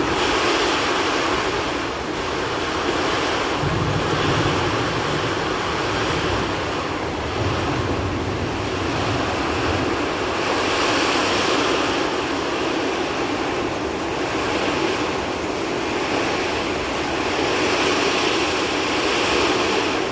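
Heavy rain driven by strong, gusting wind: a steady rushing hiss that swells every few seconds as gusts blow the rain in.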